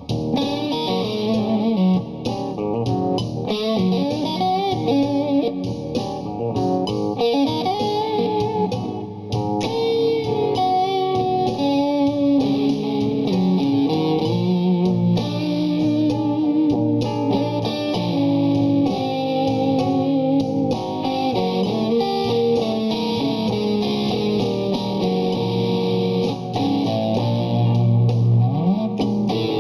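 Blues instrumental: an improvised electric guitar solo, with some notes bent in pitch, over a recorded rhythm guitar and a basic drum line.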